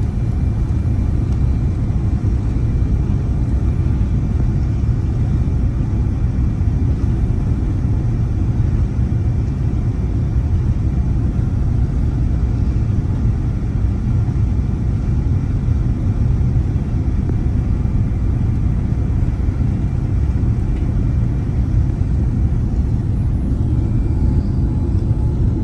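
Airliner cabin noise from a passenger seat: a loud, steady, low rumble of jet engines and rushing air.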